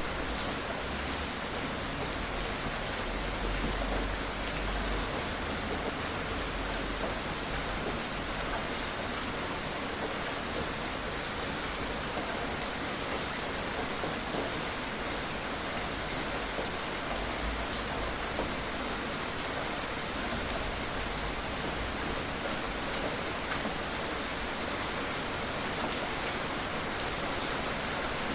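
Steady, gentle rain falling on a surface, an even hiss with scattered drop ticks and no thunder.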